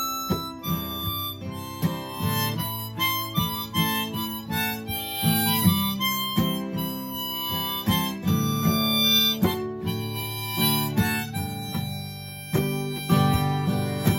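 Harmonica playing a melody over strummed acoustic guitar, an instrumental break in a live song.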